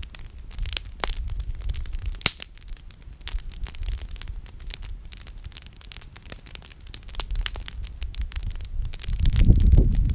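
Wood campfire crackling, with irregular pops and snaps and one sharp pop a couple of seconds in. A low rumble swells near the end.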